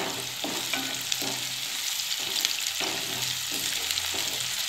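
Chopped onion and green chilli sizzling in hot oil in a non-stick wok, stirred with a spatula in repeated strokes every half second to a second over a steady frying hiss.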